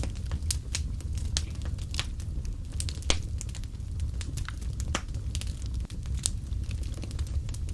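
Wood fire burning in a fireplace, with a steady low rumble and irregular sharp crackles and pops, one louder pop about three seconds in.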